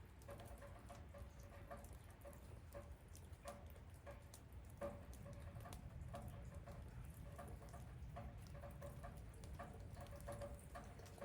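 Faint rain: scattered raindrops pattering and dripping in an irregular patter of soft ticks over a low steady rumble.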